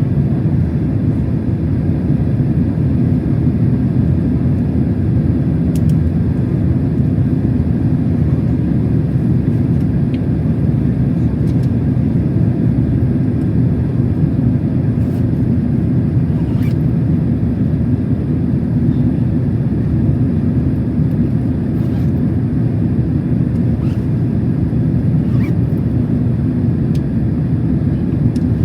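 Steady cabin noise of a Boeing 767-300 airliner in flight: a deep, even rumble of engines and airflow, with a few faint clicks.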